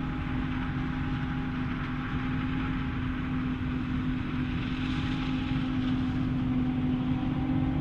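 Heavy farm machinery running steadily during a corn silage harvest, a constant engine and machine noise with a steady hum.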